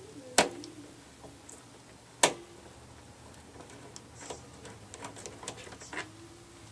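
Sharp clicks and light taps of screws and a hand tool being handled during screw removal: two loud clicks about two seconds apart, then a run of lighter clicks.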